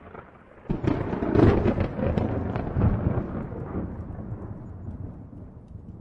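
A thunderclap. It breaks with a sudden crack under a second in, crackles sharply for about two seconds, then rolls on as a rumble that slowly fades.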